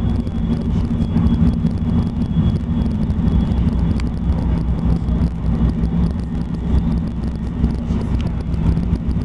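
Steady running noise inside a moving River Line diesel light-rail car: a low engine drone with rumble underneath.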